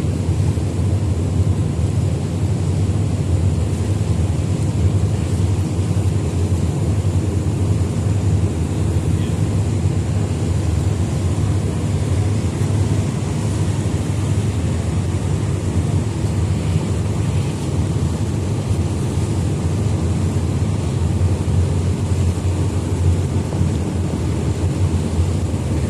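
Steady low rumble of a ferry's engines running under way, with an even wash of wind and water noise on top.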